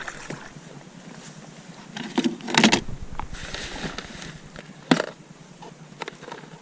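A few sharp knocks and a short scrape as gear is handled aboard a kayak, the two loudest knocks about two and a half and five seconds in.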